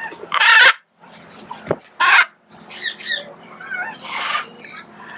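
Young macaws squawking: several loud harsh squawks about half a second long, with shorter warbling calls in between.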